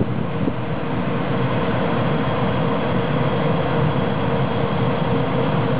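Class 139 electric locomotive hauling a freight train as it approaches: a steady rumble of wagons running on the rails, with a faint steady hum under it.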